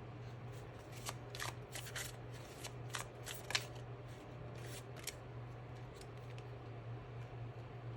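Tarot cards being shuffled and handled: a run of quick snaps and rustles from about one to five seconds in, over a steady low hum.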